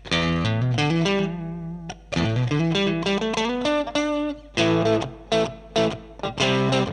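Electric guitar, a Fender Stratocaster, played through a Line 6 Helix amp-and-cab model. It plays single-note melodic phrases with some sliding pitches. From about two-thirds of the way in it switches to short, rhythmic chord stabs.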